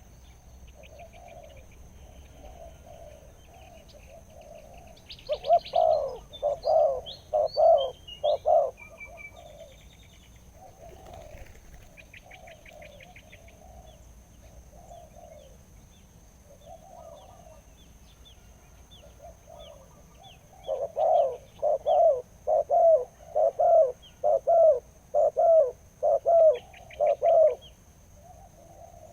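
Spotted dove cooing in repeated phrases: softer coos throughout, with two loud runs of deep coo notes, about four in the first and about ten in the second. Small birds chirp faintly higher up.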